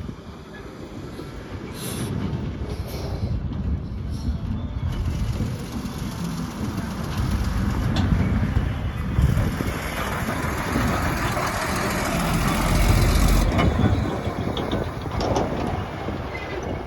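JCB backhoe loader's diesel engine working under load, its rumble building through the middle and easing off about two thirds of the way in, with a couple of sharp knocks along the way.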